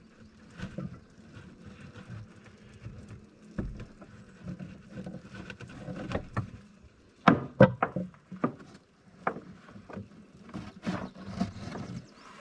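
Hive tool and hands working on the wooden box that holds a swarm of honey bees: an irregular run of knocks, clicks and scrapes, loudest in a quick cluster about seven seconds in.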